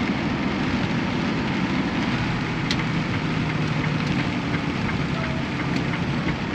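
Semi-truck running down the highway, heard from inside the cab: a steady drone of engine hum and road noise with a few faint ticks.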